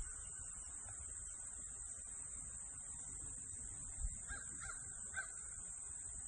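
Faint, distant bird calls, a few short ones about four to five seconds in, over a steady low outdoor rumble.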